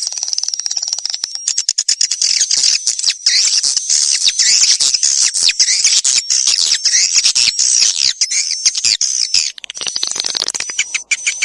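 Swiftlets calling: a dense, continuous twittering of high chirps and trills laced with rapid clicks. This is a swiftlet call recording of the kind played to lure swiftlets into a nest house.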